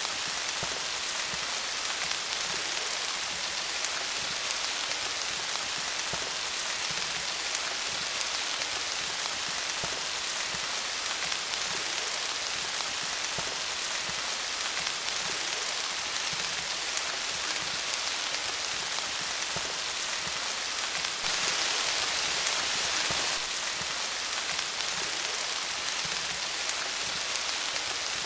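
Steady rain pattering on leaves, a dense even hiss of drops with fine individual taps. It gets briefly heavier for about two seconds, some three quarters of the way through.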